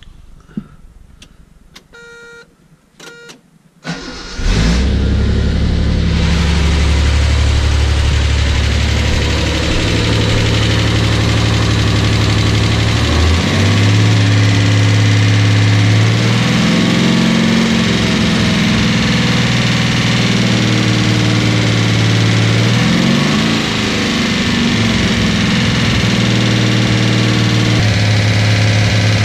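Datsun 280Z's rebuilt L28 inline-six, warm, starting about four seconds in after a few clicks and a short buzz, then running steadily. Its speed steps up about a third of the way through and rises and falls briefly twice, as it is held at raised rpm for break-in.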